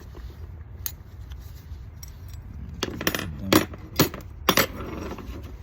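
A handful of sharp metallic clinks about three seconds in, four in quick succession: metal parts and tools being handled and set down on a workbench while a car starter motor is taken apart.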